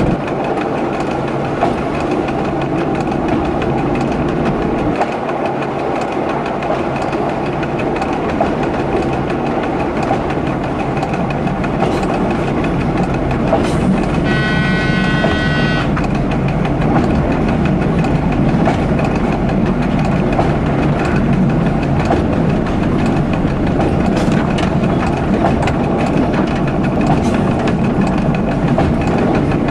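A local train running steadily, heard from the driver's cab, with a steady rumble and wheels clattering over the rail. About halfway through, its horn sounds once for under two seconds.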